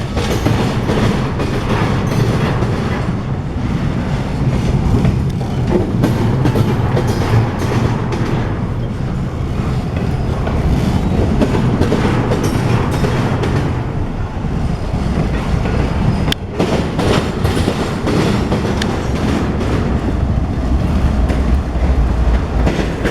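CSX freight train backing slowly through the yard, its cars rolling with the wheels clicking over rail joints over a steady rumble. There is one sharp clank about sixteen seconds in, and a deeper rumble swells near the end.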